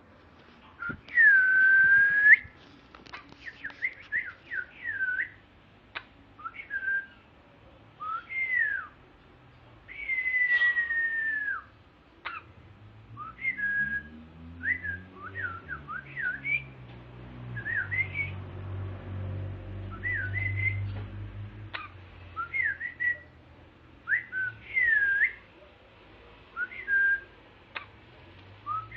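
Orange-winged amazon parrot whistling: a string of short swooping whistles, some dipping and rising, a few held for a second or more. A low hum comes and goes midway.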